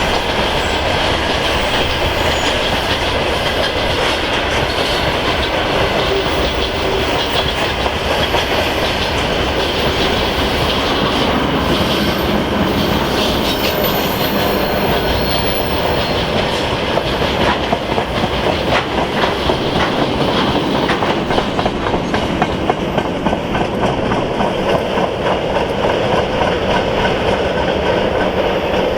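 Freight train rolling past, wagon wheels clattering steadily over the rail joints.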